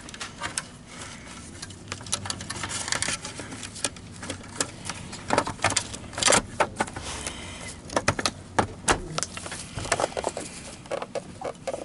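Irregular clicks, taps and knocks of plastic parts being handled as the wiring in a Wessel-Werk EBK 340 vacuum power head is tucked back into place and the housing pressed shut.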